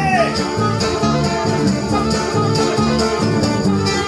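Live rock band playing an instrumental passage, with guitars over a steady drum beat.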